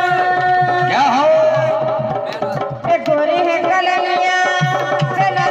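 Folk music from a rai song: a hand drum beating a quick, regular rhythm under a held, wavering melody line.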